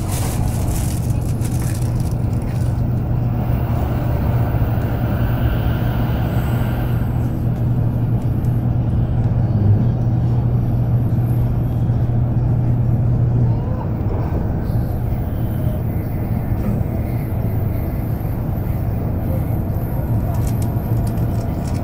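Steady running noise inside the cabin of an N700-series Tokaido Shinkansen train at speed: a deep rumble of wheels on rail with a low hum. It eases a little about two-thirds of the way through.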